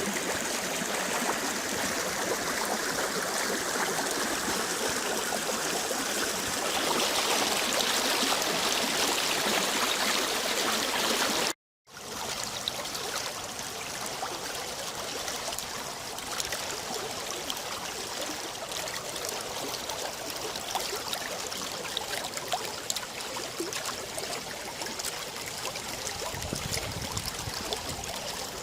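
Rain-swollen river running, a steady rush of flowing water. It drops out for a split second a little before the middle and comes back quieter.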